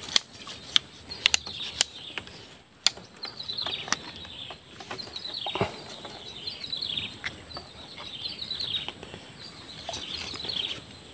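Wild bird singing repeated short phrases that fall in pitch, about one a second, over a steady high-pitched whine. In the first three seconds a few sharp splashes and knocks come as a hooked climbing perch thrashes at the water's surface and is lifted out.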